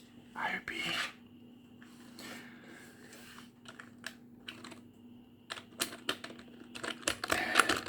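Computer keyboard keys tapped and clicked in quick, uneven runs, thickest over the last two seconds.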